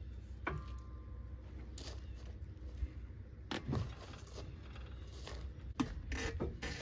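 Scattered clicks and knocks of handling hard objects, with a brief ringing tone about half a second in, over a low steady hum.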